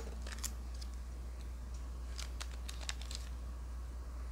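Pokémon trading cards being handled and flipped through: scattered soft clicks and rustles of card stock, a small cluster of them about two to three seconds in, over a steady low hum.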